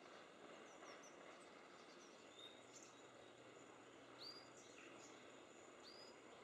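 Faint wild bird calls: a few short high chirps, the clearest three coming about two and a half, four and six seconds in, over a steady low hiss.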